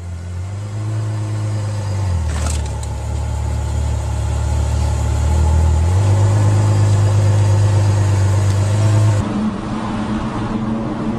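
Car engine running at steady revs, its low note changing pitch about two seconds and six seconds in. It drops to a quieter, different vehicle sound near the end.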